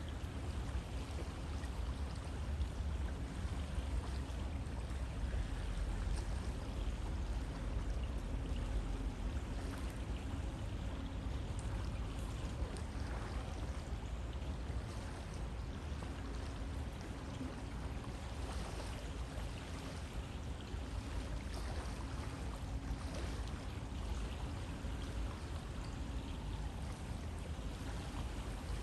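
River water flowing: a steady, continuous rush of water that does not let up.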